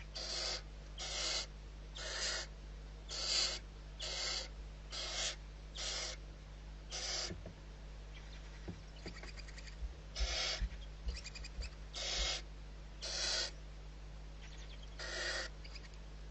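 Barn owl giving a series of short, raspy hissing calls, about one a second with a brief gap in the middle, over a steady low hum.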